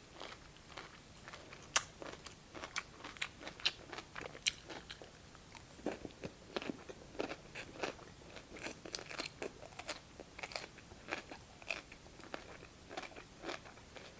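A person chewing crisp cucumber from a bowl of cold cucumber soup: many small, wet crunches at an irregular pace, heard close up.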